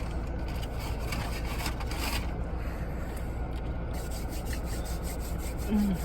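Paper food wrappers and bag rustling and rubbing close to the microphone, with scattered crackles over a steady low hum.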